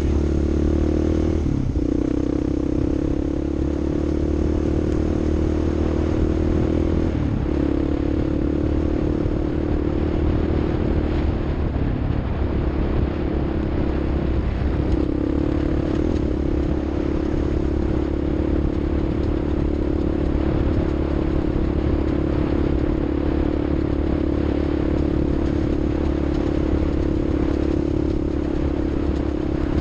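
Vehicle engine running steadily under way on an off-road ride, its pitch dipping briefly and recovering four times, about a second and a half in, near seven seconds, around twelve seconds and near fifteen seconds.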